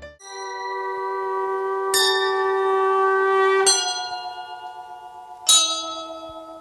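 Background music of bell-like chime chords, four chords struck about two seconds apart, each ringing on and slowly fading.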